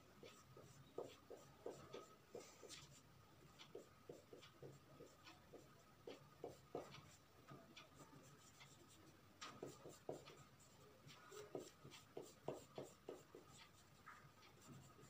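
Drawing strokes scratching on paper, quiet and in quick runs of several strokes with short pauses between, as when colouring or shading in.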